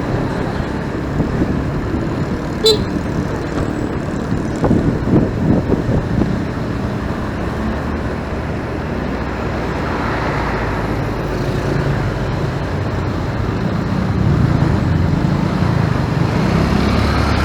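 Traffic noise heard from a motorcycle riding in busy traffic: a steady rumble of engines and tyres, with a lower engine hum growing louder over the last few seconds.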